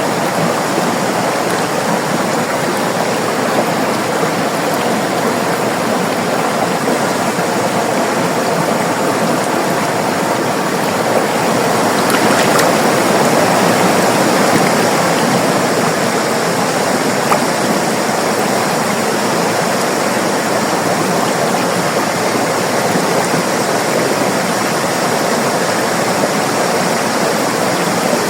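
River water rushing steadily over rocks, a continuous rushing flow that swells slightly about halfway through.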